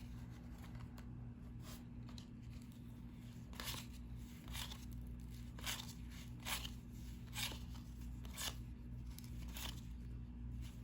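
Cardboard trading cards being slid off a stack one at a time by hand, a short papery swish about once a second.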